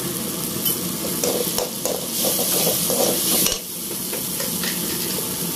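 Onion-tomato masala frying and sizzling in an aluminium kadai, with a perforated ladle stirring and scraping against the pan. A louder hiss swells for about a second and a half past the middle and cuts off suddenly.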